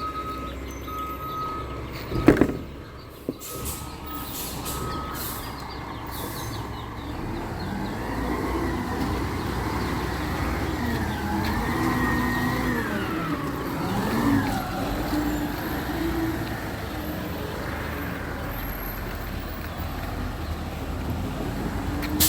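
Recycling truck backing up, its reversing beeper sounding in steady pulses for the first few seconds, with a loud bang about two seconds in. Then the truck's engine runs on, its pitch rising and falling several times before settling.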